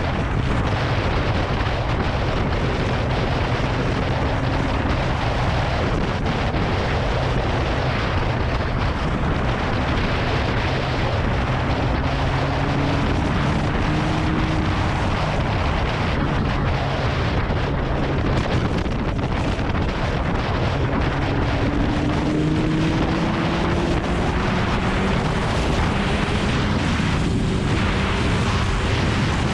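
Kawasaki Ninja ZX-9R's inline-four engine under way, heard through heavy wind buffeting on a GoPro microphone. The engine note climbs slowly twice as the bike pulls through the gears.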